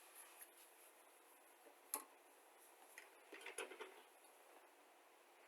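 Near silence broken by faint handling of plastic model kit parts: one sharp click about two seconds in, then a short run of light clicks and rustle a little later.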